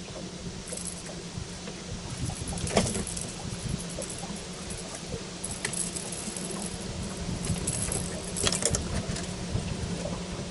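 Scattered clicks and light metallic rattles of gear being handled in a fishing boat, the sharpest about three, six and eight and a half seconds in, over a steady low hum.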